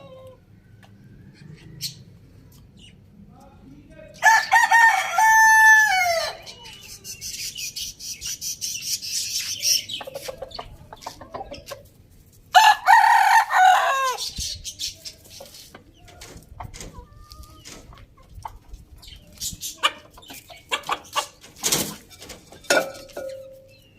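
Rooster crowing twice, each crow about two seconds long, the first about four seconds in and the second about twelve seconds in, with quieter clucking and short clicks between and after.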